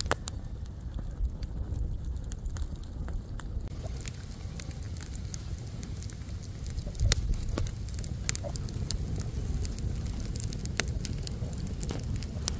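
Wood campfire crackling, with sharp pops scattered irregularly over a steady low rumble; one louder pop about seven seconds in.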